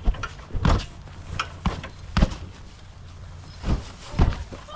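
Several irregular knocks and thumps over a low rumble.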